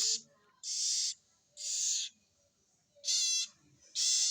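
Baby prenjak (prinia) nestling giving harsh, hissing begging calls while being hand-fed crickets, five short calls about half a second each, one with a fast rattle about three seconds in.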